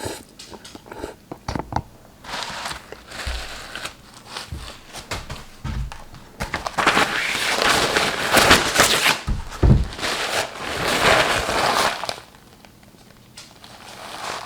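Close-up eating sounds of a person eating spicy Buldak ramen: clicks and smacks of chewing, then two long, loud noisy stretches of slurping and hard breathing through the mouth about halfway through.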